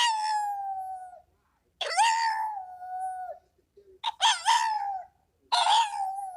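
A dog howling: a series of drawn-out calls about two seconds apart, each rising sharply and then sliding slowly down in pitch.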